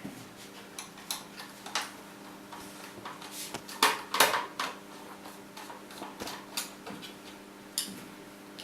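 Scattered clicks and light knocks of a screwdriver working on small screws and plastic parts inside a fan heater, loudest in a quick cluster about four seconds in, over a faint steady hum.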